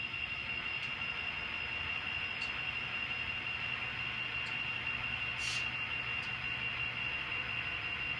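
Steady high-pitched electrical whine over a low hum from the N scale model railroad's powered locomotive and track, with a few faint clicks and one short hiss about five and a half seconds in.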